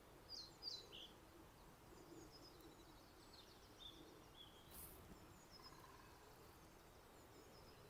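Male pied flycatcher singing faintly: short phrases of high, quick notes stepping down in pitch, one less than a second in and another around the middle.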